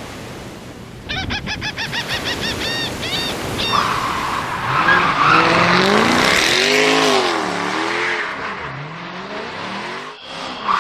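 A motor vehicle's engine revving up and down, after a quick run of high squeaking chirps that slow down.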